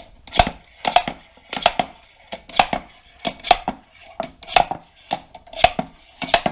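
Repeated sharp metal-on-metal hammer blows, each with a short ring, about one a second, knocking a bearing out of a snowmobile's chaincase.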